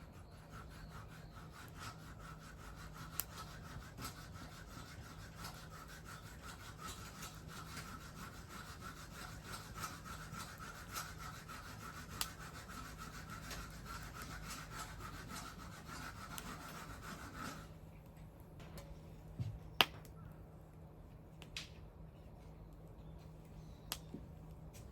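Wood fire crackling, with scattered small pops and one sharper pop near the end. A steady hissing note runs under the crackle and stops abruptly about two-thirds of the way through.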